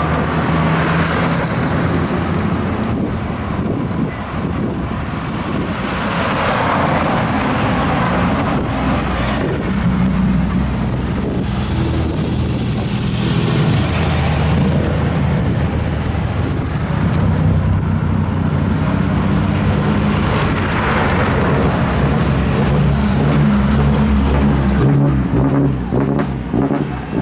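Racing car engines running at a steady idle, their low note holding level, with several brief swells of mechanical noise over it.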